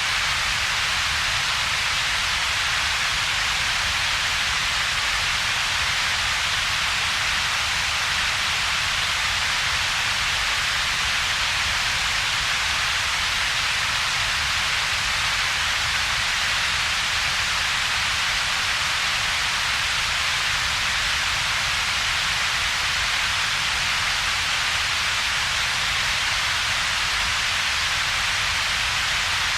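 Steady, unchanging synthetic double-peaked noise: a broad hiss strongest in the upper middle of the range, with a separate low rumble beneath and a hollow gap between the two bands.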